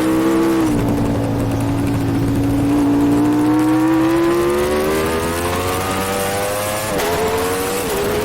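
Racing superbike engine heard onboard, pulling hard with its pitch rising steadily for several seconds, then two quick upshifts near the end, each a sudden drop in pitch before it climbs again.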